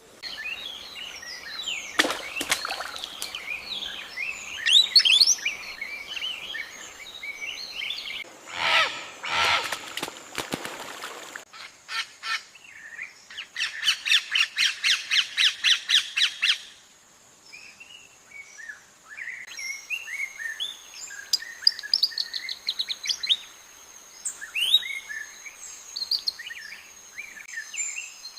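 Many birds calling and chirping together, with a rapid run of evenly repeated notes, about five or six a second, lasting a few seconds near the middle.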